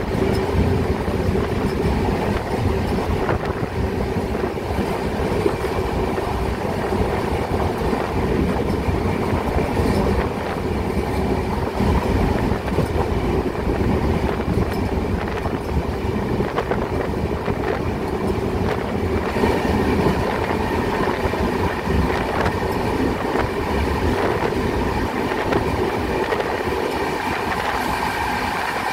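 Passenger train running at speed, heard through an open coach doorway: a steady rumble of wheels on rails with occasional clicks of rail joints. In the last part a train on the adjacent track runs close alongside.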